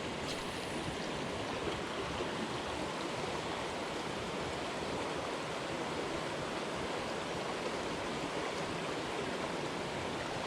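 Headwater jungle stream flowing, a steady even rush of water.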